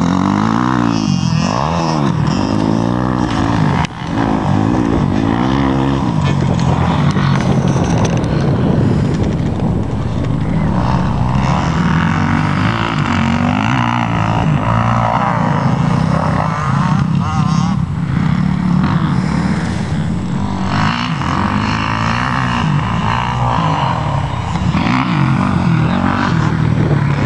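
Motocross dirt bike engine revving hard and rising and falling in pitch as it goes through the gears and chops the throttle, with a brief drop about four seconds in.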